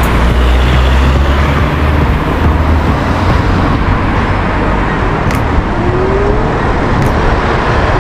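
Busy road traffic with wind noise on the microphone; a deep rumble is strongest over the first three seconds.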